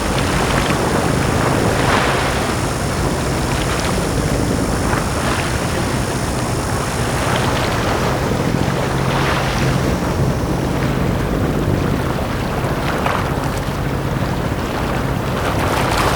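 Small sea waves washing onto a beach, a soft rush every few seconds, over a steady low hum.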